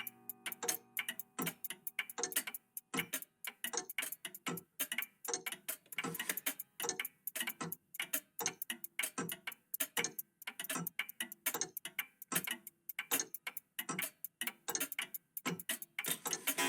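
Several old mechanical clocks, among them a cuckoo clock, ticking at once. Their ticks overlap out of step, several a second.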